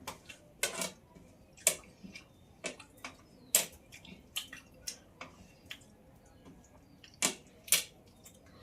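Close-up mouth sounds of someone chewing food: a dozen or so sharp wet smacks and clicks at irregular intervals, the loudest pair near the end.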